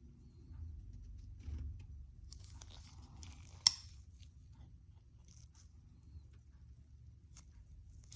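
Hands handling a folding knife and its packaging: light rustles and scrapes, with one sharp click a little over three and a half seconds in and a smaller one near the end.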